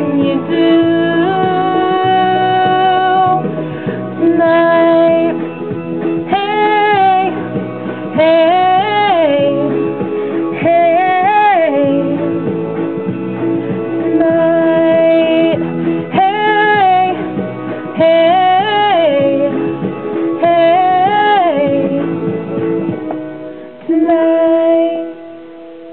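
A woman singing long, held wordless notes over guitar: the closing bars of a pop song. The music thins out near the end on one last held note.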